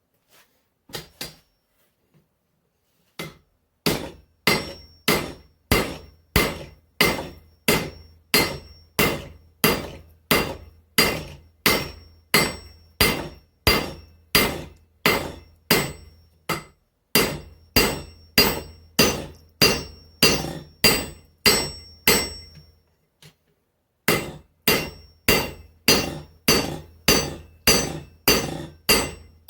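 Hammer blows on hot mild steel over an anvil, about two a second, each with a ringing tone. After a few scattered taps the blows settle into a steady rhythm, break off briefly two-thirds of the way through, then resume. The steel is being drawn thinner and shouldered to form an axe's eye.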